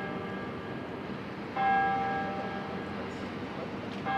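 A church bell tolling slowly: one stroke about a second and a half in and another near the end, each ringing on and fading, over a steady low hum.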